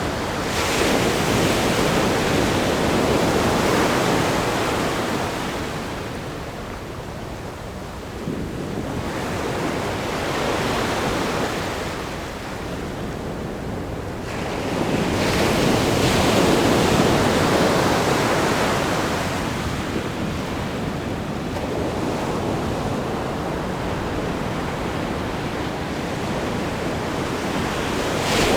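Ocean waves breaking against a rock groin and washing over sand, in a continuous rushing surf with a big surge about a second in and another about fifteen seconds in, and quieter spells between.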